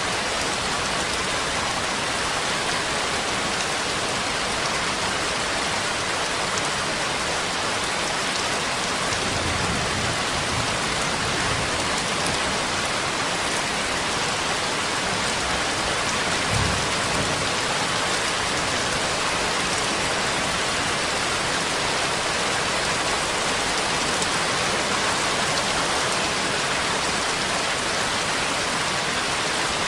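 Steady, dense rainfall, an even hiss of drops on a surface. Brief low thumps come about ten seconds in and again around seventeen seconds.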